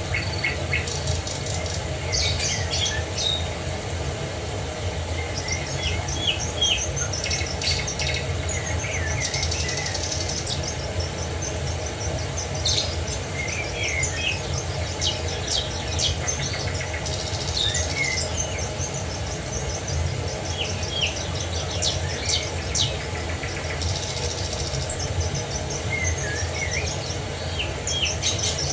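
Several small songbirds chirping and trilling in quick, high repeated calls, over a steady low rush of falling water.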